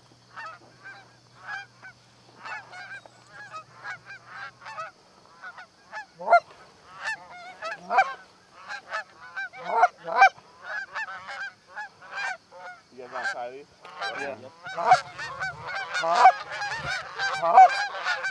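Canada goose honks: many short calls, sparse at first, then thickening and getting louder toward the end as several birds call together.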